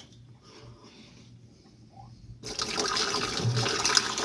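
Water being poured into the refrigerator, starting about halfway through as a steady pouring splash, testing whether the water runs down through it.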